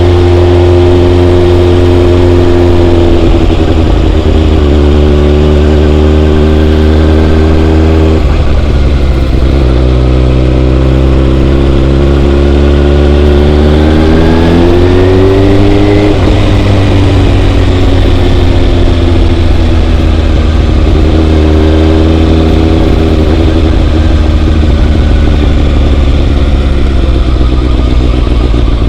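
Motorcycle engine running under way over a steady low rumble. Its pitch climbs and drops several times as the bike accelerates and changes gear, with the longest climb about halfway through.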